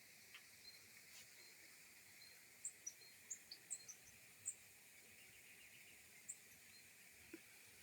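Faint, steady drone of insects, with a few short, high bird chirps scattered through it.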